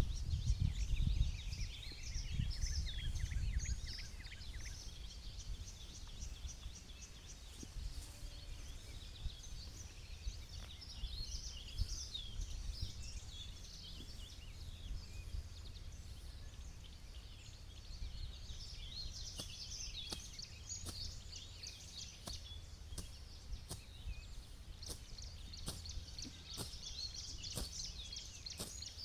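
Outdoor ambience with many small birds chirping continuously. Low wind rumble on the microphone fades after the first few seconds, and scattered sharp clicks come in the second half.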